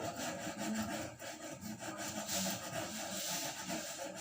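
Hand sanding wood: sandpaper rubbed back and forth over a wooden surface, a continuous scratchy rubbing.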